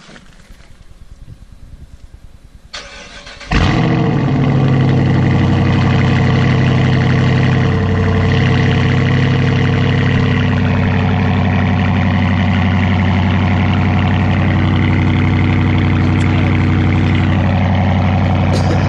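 2017 Dodge Charger Daytona V8 with a mid-muffler delete, cold-started: the starter cranks briefly about three seconds in, then the engine catches loudly and settles into a steady, fast cold idle.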